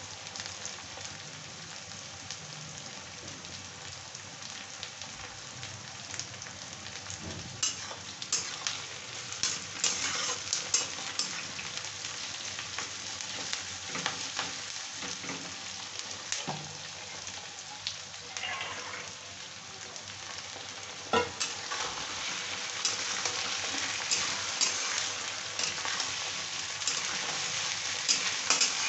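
Sliced onions sizzling in hot oil in a kadai, with a metal spatula scraping and clinking against the pan as they are stirred. The frying gets louder in the last third, once boiled chickpeas have gone into the pan.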